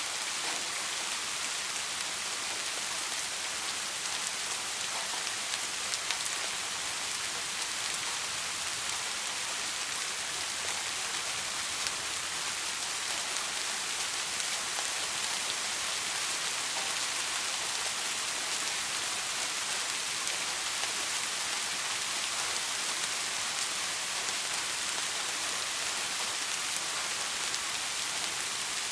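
Steady soft rain falling: an even hiss of rain on a surface with faint scattered drop ticks, and no thunder.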